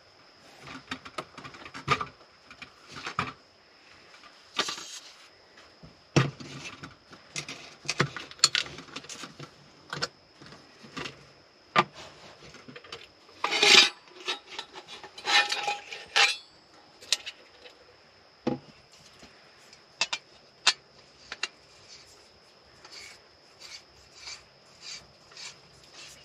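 Objects being handled and set down: irregular clicks, knocks and rubbing or rustling, with a denser burst of rustling about halfway through. A faint steady high-pitched tone runs underneath.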